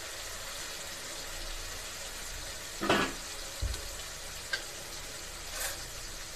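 Onions and tomatoes frying in oil in a steel wok, a steady sizzle. About three seconds in there is a short loud knock.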